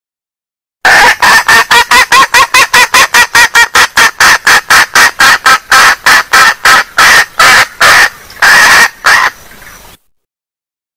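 Female junglefowl hen giving a fast run of short clucks, about four a second, used as a lure call to draw wild junglefowl. Near the end the clucks slow into a few longer calls, then the sound cuts off abruptly.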